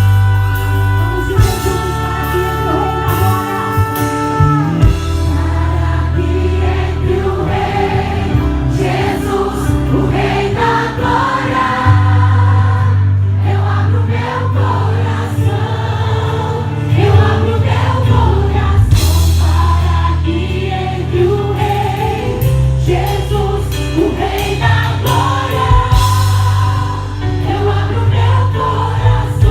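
Gospel music played live: a choir of voices singing over a band with a strong bass line. Sustained instrumental chords open the passage, and the voices come in a few seconds later.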